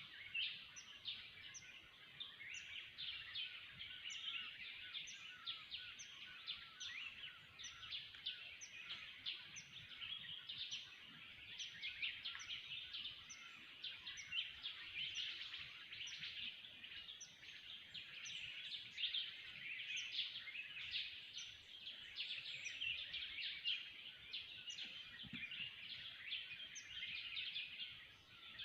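A dense chorus of many forest birds calling at once: short, high chirps and notes overlap without a break, with one sharp high note repeating over and over on top.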